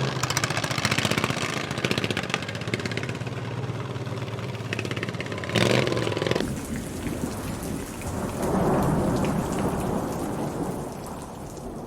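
Racing lawn mower engines running hard, with a rapid firing buzz and a loud surge about halfway through. After that the engine tone fades into a rough, noisy rumble.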